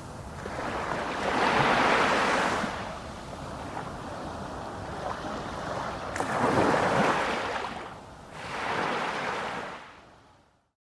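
Sea waves washing in three slow surges that swell and ebb, fading out to silence near the end.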